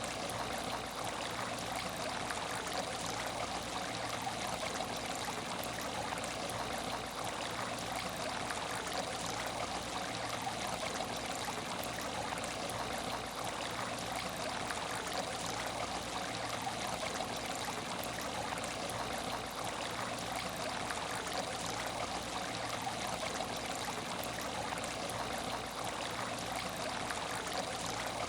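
Water running and trickling in an aquarium tank, a steady, even flow with no breaks.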